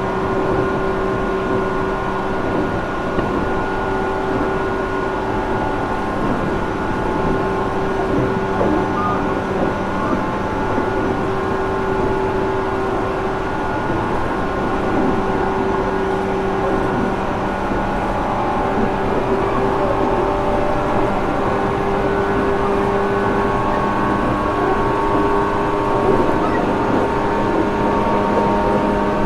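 Running sound aboard a JR Kyushu 415 series 1500 subseries electric train, motor car MoHa 414-1513: steady traction motor and gear whine over rail and wheel noise. This car is known for an unusual running noise.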